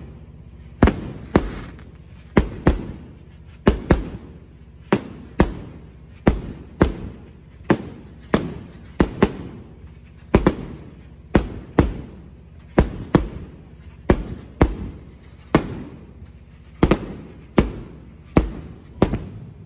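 Fireworks going off in quick succession: a continuous string of sharp bangs, about one to two a second, each followed by a short echoing tail.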